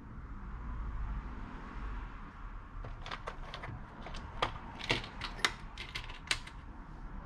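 A series of about a dozen sharp, irregular mechanical clicks over a low steady rumble.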